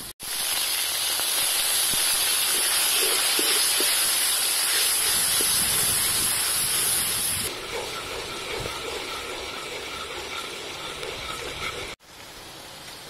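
Minced garlic and palm sugar sizzling in hot oil in a wok, a loud steady hiss. About halfway through it drops to a softer sizzle with light bubbling and crackle.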